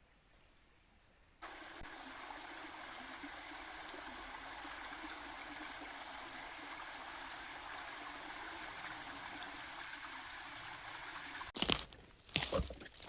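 Small stream running with a steady rush of flowing water, starting abruptly about a second and a half in. Near the end it stops and a few loud, sharp knocks follow.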